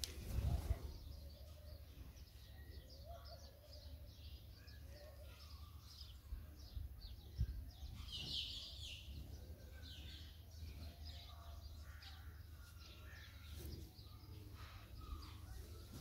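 Small birds chirping, with a busier burst of chirps about eight seconds in, over a steady low rumble.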